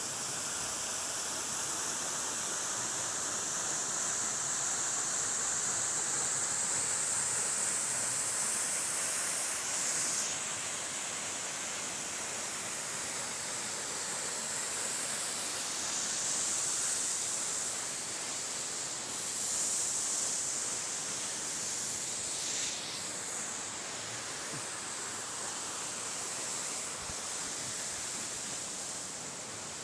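Waterfall: a steady rush of falling water that swells a little now and then.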